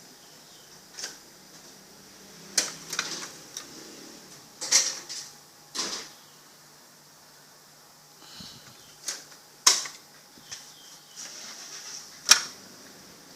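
Irregular clicks and knocks, about a dozen, of tools and panel parts being handled while a Canon imageRUNNER Advance 6075-series copier's rear is taken apart. The sharpest knock comes near the end.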